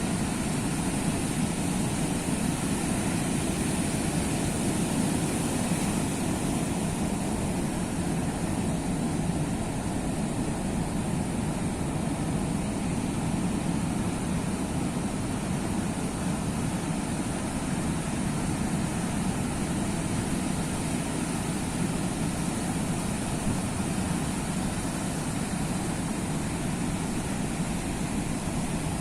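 Sea surf washing steadily: a continuous low rumble of waves with a hiss on top and no separate surges standing out.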